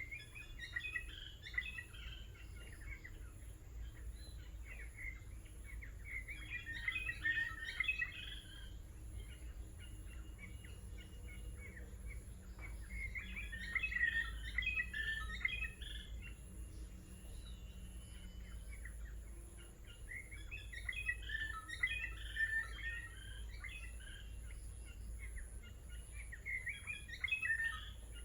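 A songbird singing in short bursts of quick, varied chirping notes, a phrase about every six or seven seconds.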